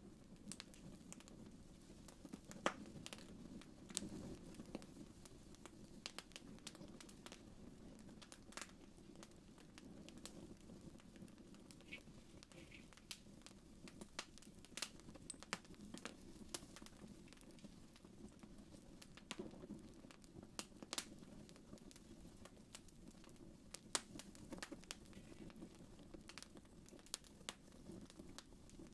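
Wood fire crackling faintly in a fireplace: irregular sharp pops and snaps over a soft, steady low rush of flame.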